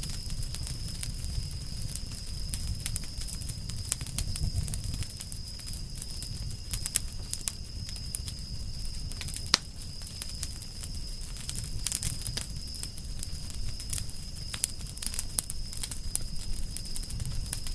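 Wood campfire burning, crackling with many small pops over a low rumble of the flames, with one sharp, louder pop about halfway through.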